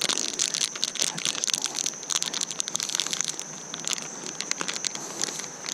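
Crinkling and crackling handling noise close to the microphone while a worm is threaded onto a fishing hook: irregular clicks, thicker in the first half, over a steady high-pitched tone.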